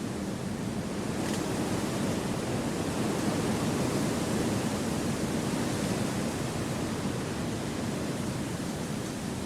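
Wind rushing through forest trees, a steady noise that swells a little in the middle and then eases back.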